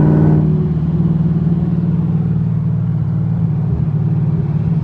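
5th-gen Chevrolet Camaro engine running steadily at one speed. The owner hears a light knock from the driver's side, which he thinks is probably a rod knock or a loose rocker.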